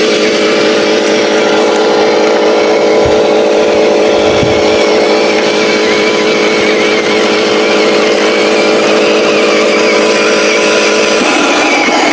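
Engine sound of an RC Scania 770S logging truck, a steady, even drone that turns rougher near the end.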